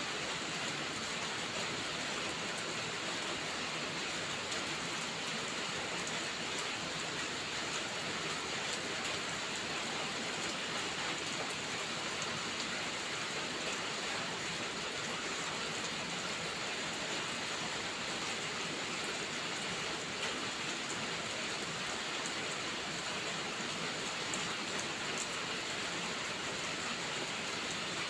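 Heavy rain falling steadily: a dense, even hiss with faint scattered ticks of drops.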